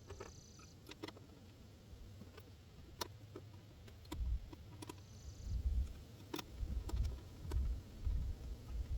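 Scattered sharp clicks of metal bolts and a wrench as the throttle body's four bolts are put back in and tightened, with a low rumble from about four seconds in.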